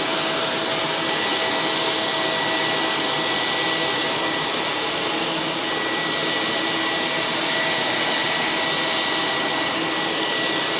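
Vacuum cleaner running steadily: a constant rush of air with a steady high whine.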